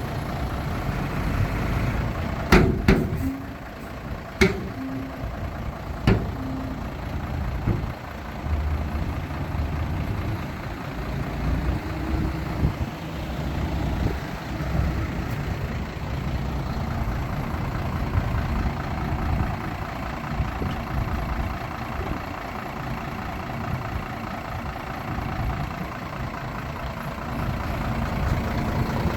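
Heavy diesel earthmoving machinery, dump trucks and bulldozers, running steadily with a low engine rumble. Several sharp knocks come between about two and six seconds in.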